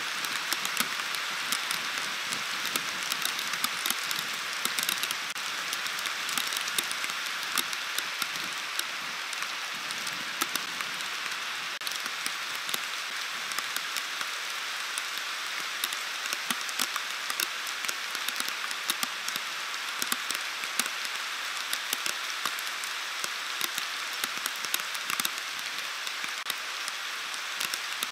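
Heavy storm rain hissing steadily, with many sharp ticks of drops striking close by.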